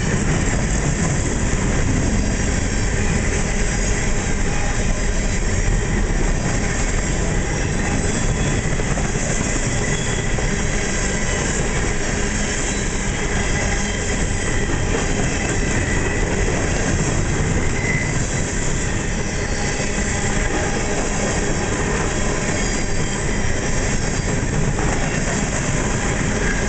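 Coal train's open-top coal cars rolling past close by: a steady, loud rumble and rattle of steel wheels on the rails, unbroken throughout.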